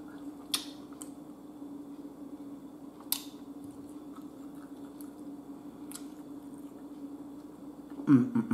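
Close-miked chewing of a mouthful of butter-dipped ribeye steak, with a few sharp wet mouth clicks spread through it, over a steady low hum. A voice sound starts near the end.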